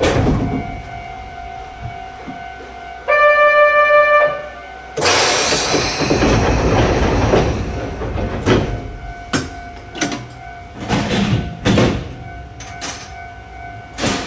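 Sanko Railway Hokusei Line narrow-gauge train: a chime sounds for about a second, a loud rush of noise follows about a second later, then a run of irregular knocks and clatters, over a steady hum.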